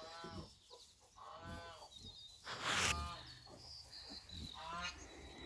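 Farm animals calling: four short pitched calls spread through a few seconds, with a louder rough rustling noise about two and a half seconds in.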